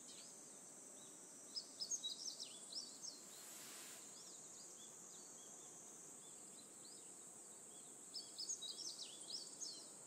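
Birds chirping in two quick flurries of short calls, a couple of seconds in and again near the end, over a steady high-pitched hum.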